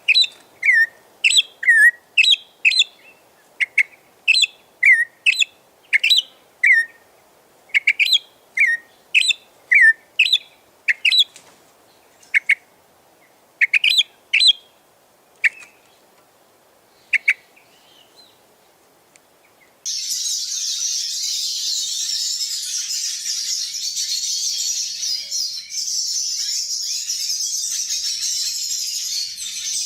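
Birds calling: a series of short, sharp, down-slurred call notes, about two a second in little clusters, which thin out and stop. After a short pause the sound switches abruptly to a dense, continuous high twittering of many quick chirps.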